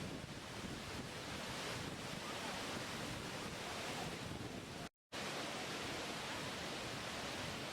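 Steady rush of falling water from a waterfall, an even hiss with no distinct events. The sound cuts out completely for a fraction of a second just after the middle, then returns unchanged.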